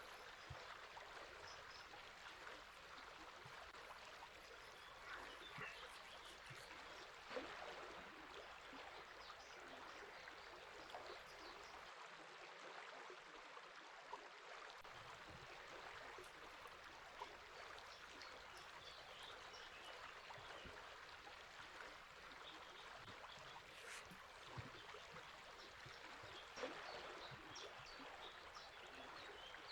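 A river flowing with a steady, faint rush of water, with scattered, faint bird chirps over it.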